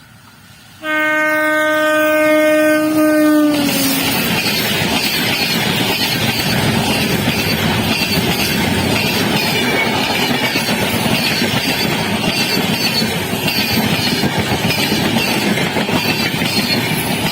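Indian Railways locomotive horn sounding one long blast about a second in, its pitch dropping as it cuts off, then the loud rush and rattle of a train passing close at speed, wheels clattering over the rail joints.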